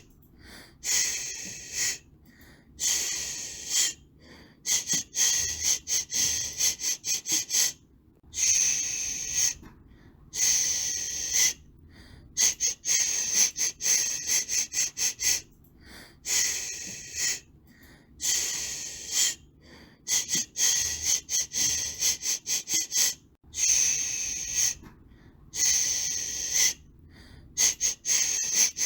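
Rhythmic shushing to soothe a baby: long hissing "shhh" sounds come about every two seconds, with runs of quick short "sh" pulses between them.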